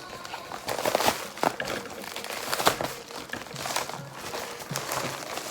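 Plastic or paper packaging crinkling and tearing as a package is pulled open by hand, in irregular crackles and rustles.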